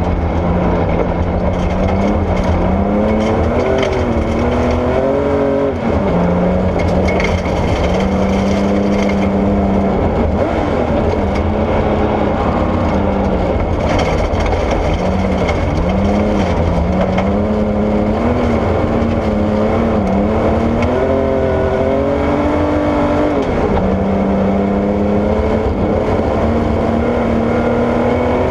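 Porsche 964 rally car's air-cooled flat-six engine running hard, its pitch climbing and dropping repeatedly through lifts and gear changes, over a steady loud rumble of tyres on gravel.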